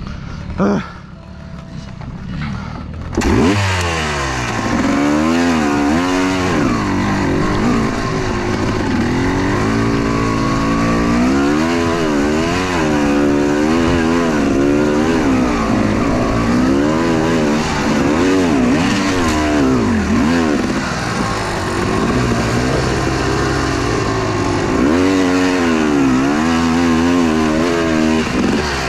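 Two-stroke enduro motorcycle engine revving hard, its pitch rising and falling again and again as the throttle is worked on a climb. It is quieter for the first three seconds, then comes in loud about three seconds in.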